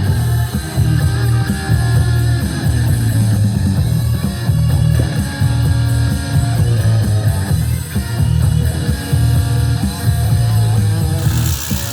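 Classic rock song playing on the radio: guitar over a pulsing bass line and drums.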